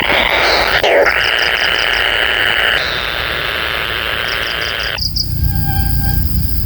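A kingfisher calling: two short runs of about six rapid high notes, one about a second in and one about four seconds in, over a dense steady hissing buzz. The buzz cuts off abruptly about five seconds in, leaving a low rumble.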